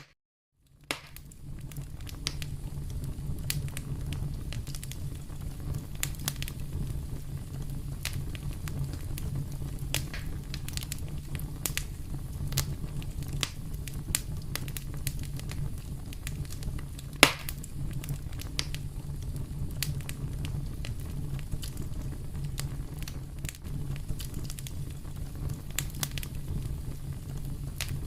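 Wood fire burning in a fireplace: a steady low rumble of flames with scattered sharp crackles and pops, one pop louder than the rest partway through. It starts after a brief moment of dead silence.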